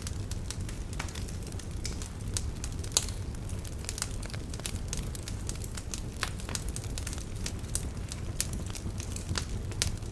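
Wood fire burning in a fireplace: irregular sharp crackles and pops over a steady low rumble of the flames, with the loudest pop about three seconds in.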